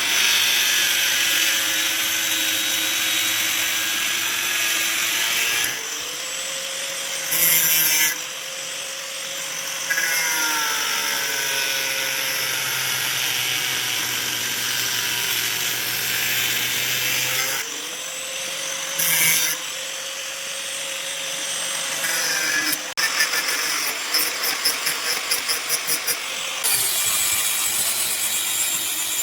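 Electric power tool running and working steel plate, its motor pitch dipping and recovering as it takes load. There are short louder bursts twice, and a rapid run of pulses near the end.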